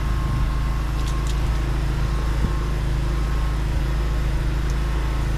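Drain jetter's engine running steadily at a constant idle.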